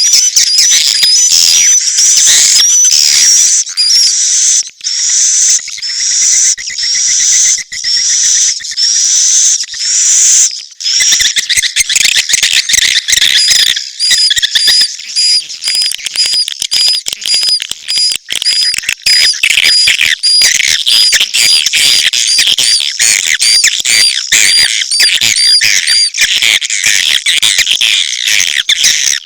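A dense chorus of swiftlet chirps and twitters from a swiftlet-house lure recording that mixes mating and chick calls. For about the first ten seconds a slurred chirp repeats roughly twice a second over the chatter; after that comes a quicker run of short, hooked chirps, about three a second.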